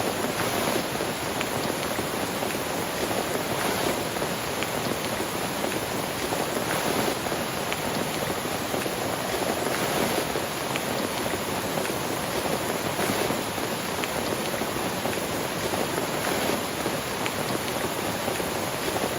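Heavy rain falling steadily, a dense hiss with occasional sharper drop ticks.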